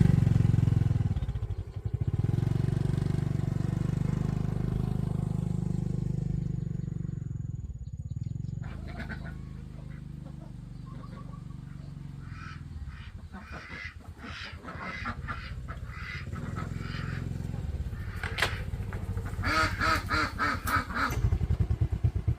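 A motorbike engine running and dying away over the first several seconds as the ride comes to a stop. From about nine seconds in, farm waterfowl give a run of short honking calls, louder and thicker near the end.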